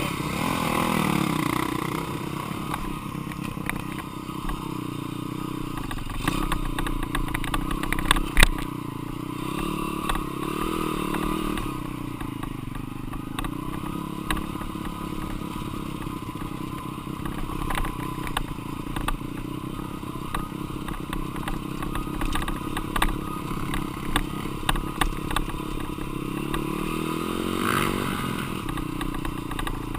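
Dirt bike engine running under changing throttle, its pitch rising and falling again and again, with clattering and sharp knocks throughout; the loudest knock comes about eight seconds in.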